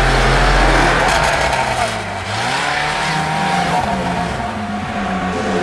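Car engine running off-road, steady at first, then dipping and rising again in pitch a little past two seconds in as it revs.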